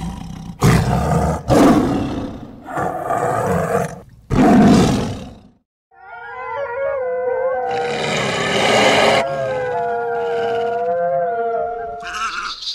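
Lion roaring in a run of rough, loud calls for about five seconds. After a short break, wolves howl in long, held notes that waver a little, with a second voice joining on a different pitch.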